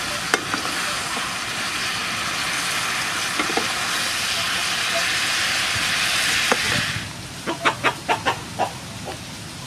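Steady frying sizzle from a hot pan of stir-fry that cuts off suddenly about seven seconds in, followed by a quick run of about six short, sharp sounds.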